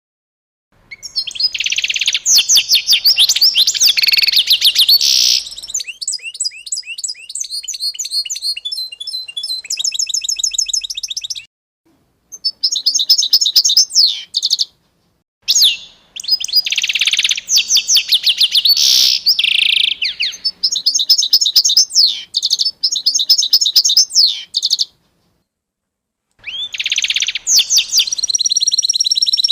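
A songbird singing long, rapid phrases of trills and high whistles, broken three times by brief gaps of dead silence where the recording cuts.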